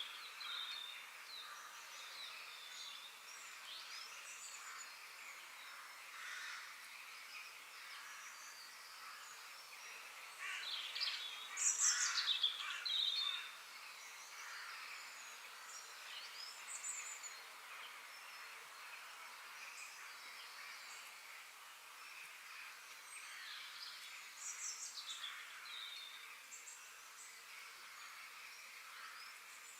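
Several birds chirping and singing over a soft steady outdoor hiss, with a louder burst of calls a little before the middle.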